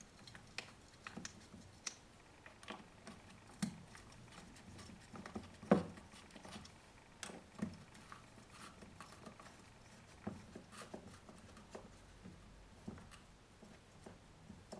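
Scattered small clicks and light taps of chainsaw parts and tools being handled during reassembly, with one sharper knock about six seconds in.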